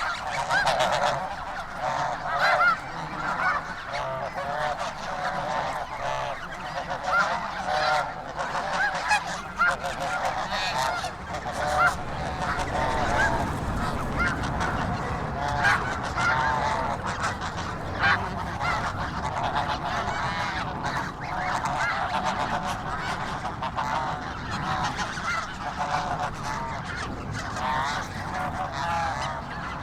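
A large flock of snow geese calling: many overlapping honks with no pause.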